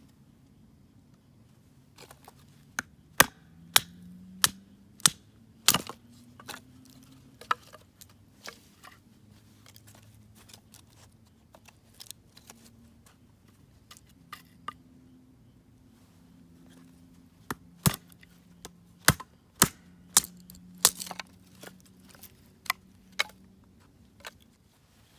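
Sharp, irregular cracks and snaps of wood, coming in scattered clusters, over a faint low drone.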